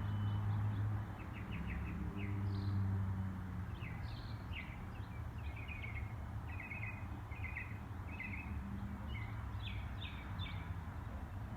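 Small birds chirping, with short calls in quick runs throughout, over a steady low hum that is louder near the start.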